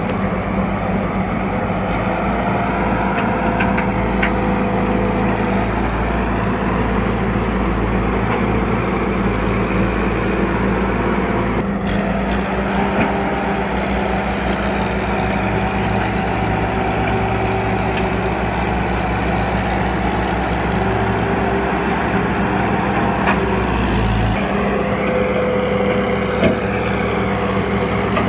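Tractor engine running with a steady low drone. The sound shifts abruptly about twelve seconds in and again near twenty-four seconds.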